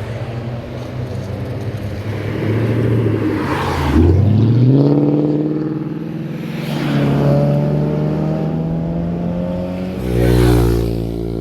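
Cars passing one after another on a winding road, their engines revving up as they accelerate out of the bends. The loudest passes come about four seconds in and again near the end.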